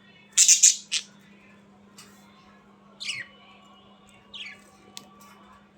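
Pet budgerigars calling: a loud harsh squawk about half a second in, followed by a couple of short chirps that fall in pitch.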